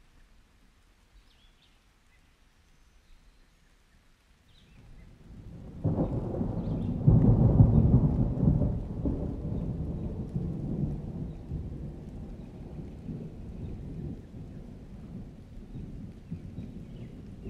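Thunder: a low rumble builds, breaks into a loud roll about a third of the way in, then slowly dies away into a steady low rumble with rain.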